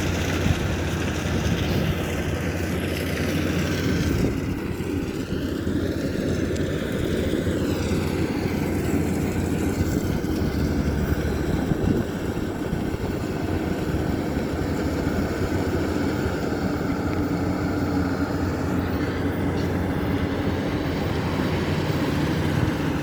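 Rice combine harvester's engine running steadily with a continuous low drone, a few faint rising and falling whines over it.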